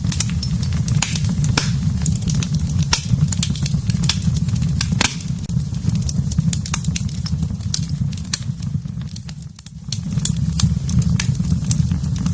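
Wood fire burning in a fireplace: a steady low rumble of flames with frequent sharp crackles and pops, one louder pop about five seconds in. The rumble dips briefly near the end.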